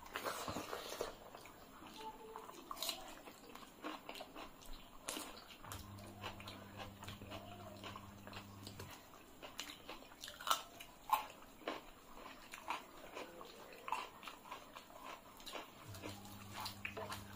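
Close-up mouth sounds of people eating rice and curry by hand: irregular wet chewing clicks and lip smacks, a few louder ones about ten seconds in.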